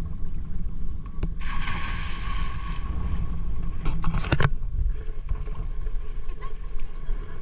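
Steady low rumble of wind and water on board a sailing yacht at sea. A rush of hiss comes about a second and a half in, and a few sharp knocks follow near the middle.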